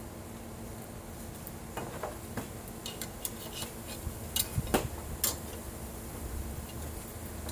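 A run of sharp light metallic clicks and taps from hand tools working aluminum sheet, about a dozen in a few seconds, the loudest about two-thirds of the way through, over a steady low hum.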